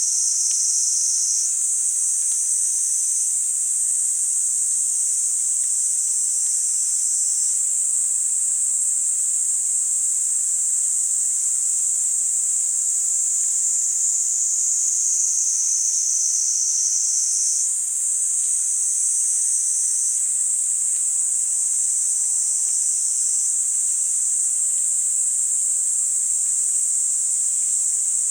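Kaempfer cicadas (niiniizemi) giving a continuous high-pitched buzzing drone. The drone's pitch steps down and back up a few times.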